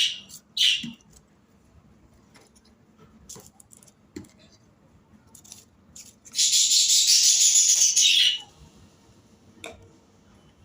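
Medicine packaging being handled: a few light clicks, then about two seconds of loud rattling rustle starting about six seconds in.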